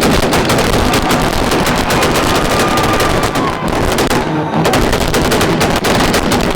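Car engine held on a two-step launch-control rev limiter, firing a rapid, continuous string of exhaust pops and bangs.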